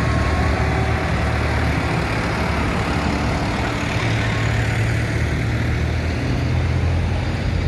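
Diesel tractor engines running steadily with a deep, heavy drone.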